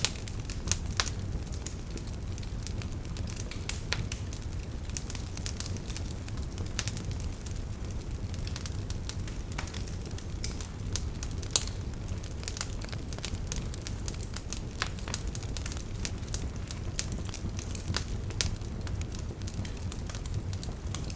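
Wood campfire burning, with irregular sharp crackles and pops from the burning firewood over a steady low rumble of the flames.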